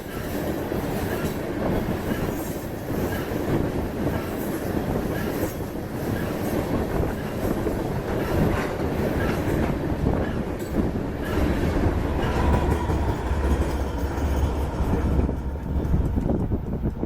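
Freight train cars rolling past close by, wheels clacking over the rails with a deep rumble underneath.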